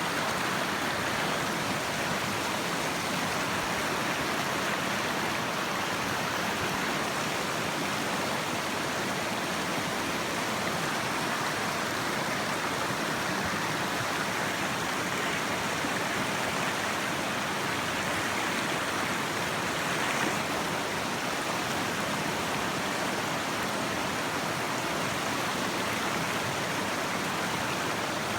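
Steady rushing of whitewater through a class II river rapid, an even hiss of water that holds level throughout.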